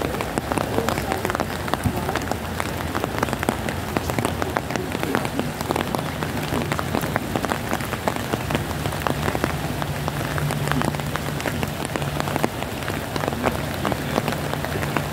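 Steady heavy rain, with many individual drops striking close to the microphone. A low steady hum joins in partway through.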